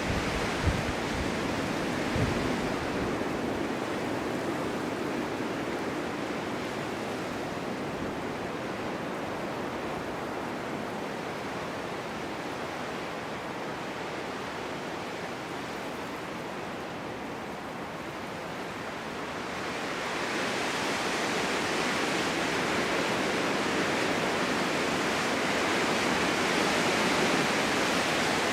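Strong winter wind blowing steadily across an open meadow, easing a little midway and gusting up again about twenty seconds in.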